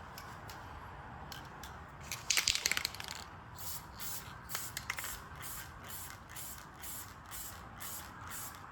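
Aerosol can of satin black spray paint hissing: one longer burst about two seconds in, then a run of short spurts about two a second.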